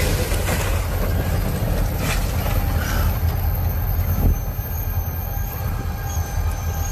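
Train going by, a steady heavy rumble with noise.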